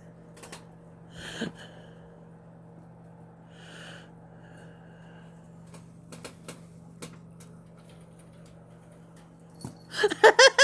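A person bursting into rhythmic laughter near the end, after a stretch of quiet with a steady low hum and a few faint taps.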